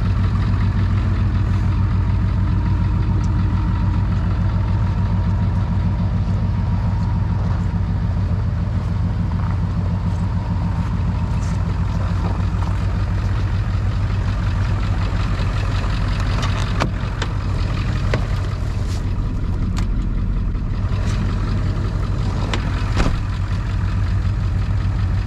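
Ford Super Duty tow truck engine idling steadily at low idle in the cold; the high idle won't engage, which the owner puts down to the park brake light not coming on. A few light clicks can be heard in the second half.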